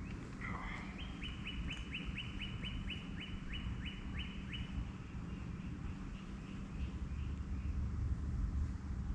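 Northern cardinal singing: a run of about a dozen quick down-slurred whistles, three to four a second, which stops about halfway through.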